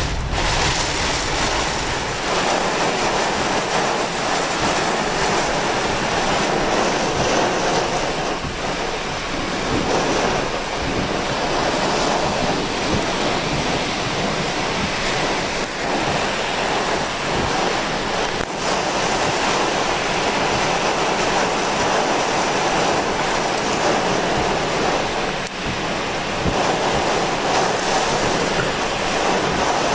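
Torrential thunderstorm downpour driven by strong wind gusts: a dense, steady rush of rain and wind.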